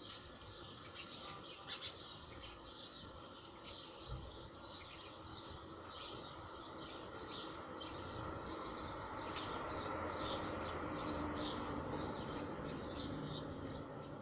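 Small birds chirping, with short high chirps coming again and again across the whole stretch. Under them is a steady background rush that grows louder around the middle.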